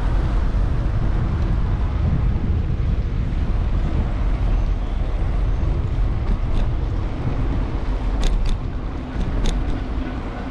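Wind rumbling on a bike-mounted action camera's microphone, mixed with passing road traffic, during a city bike ride. A few sharp clicks come near the end.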